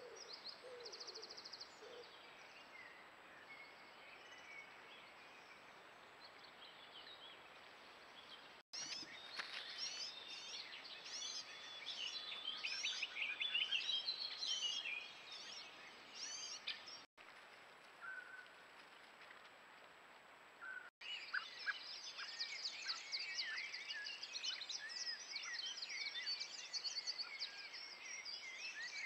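Wild birds singing and calling: many quick chirps, whistles and trills over a steady hiss. The song is busiest in two stretches, through the middle and towards the end, and the sound cuts out briefly three times.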